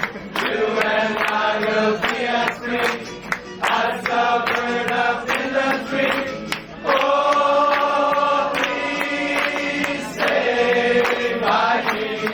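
A group of voices singing together in chorus, a chant-like song with long held notes.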